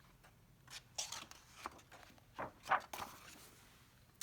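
Several short, soft paper rustles as the pages of a picture book are handled and turned.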